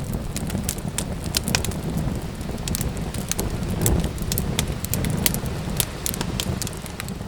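Wood fire crackling and popping, with irregular sharp snaps over a steady low rumble of flames.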